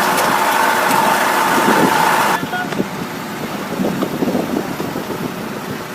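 Heavy vehicle engine running with a steady high whine, then an abrupt change a little over two seconds in to a quieter, rougher engine rumble as the footage cuts.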